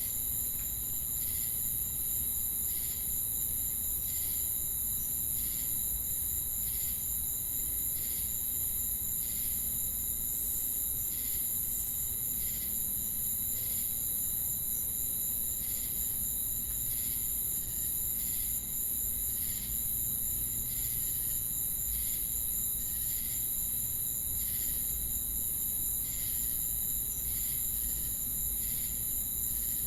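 Chorus of crickets and cicadas: a continuous high-pitched insect drone with a steady trill under it, and a regular chirp repeating about three times every two seconds.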